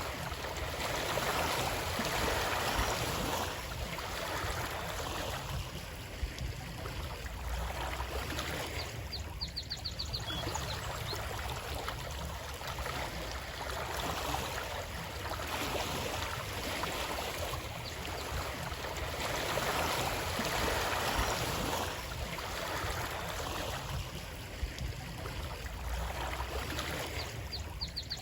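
Running water of a stream, a steady rush that swells and eases every several seconds. A short high clicking trill comes twice, about 18 seconds apart.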